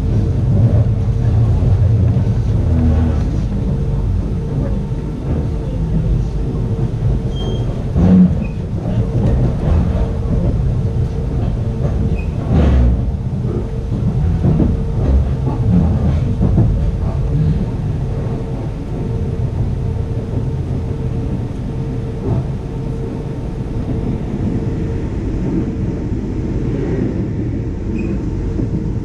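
Passenger train in motion, heard from on board a 25T coach: a steady rumble of wheels running on the track under a faint constant hum, with a couple of louder knocks.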